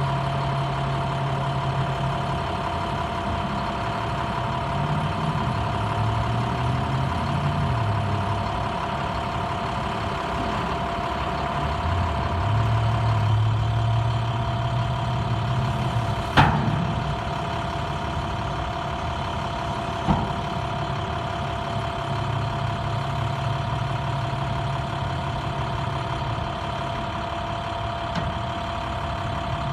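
International 4400 dump truck's MaxxForce DT diesel engine idling steadily, with one sharp click a little past halfway and a fainter one a few seconds later.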